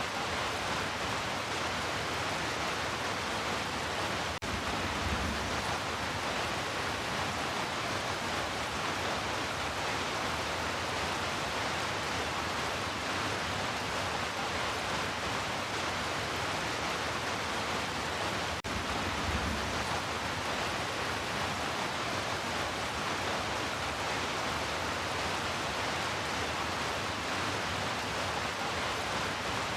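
Heavy rain falling steadily as an even hiss. The sound dips for an instant twice, about 4 seconds and about 19 seconds in, each time followed by a short low rumble.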